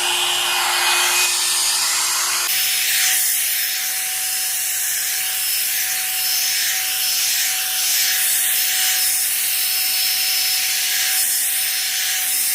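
Hot air brush hair dryer blowing steadily, with the hiss of its air rising and falling as the brush is drawn through wet hair. Its motor hum steps up to a higher pitch about two and a half seconds in.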